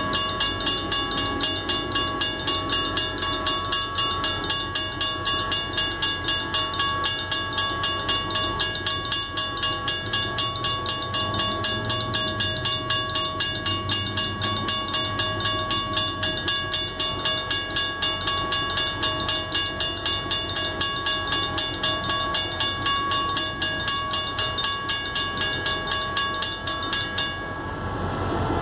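Two mechanical railroad crossing bells, a WRRS and a RACO, ringing together with rapid, even strokes, with a train's low rumble beneath. The ringing cuts off suddenly shortly before the end as the crossing signals shut off.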